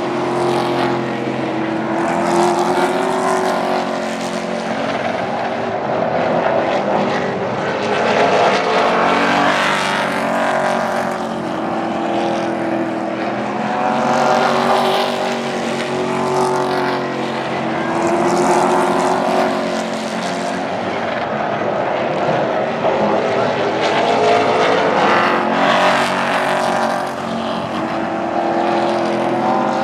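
Super Truck race engines running hard as the pack laps the oval, the sound swelling and fading every few seconds as trucks go past.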